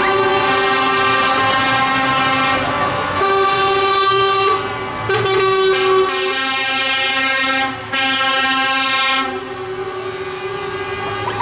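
Truck air horns sounding in long held blasts, several tones at once, with short breaks between blasts; about nine seconds in the higher horn stops and a lower tone carries on.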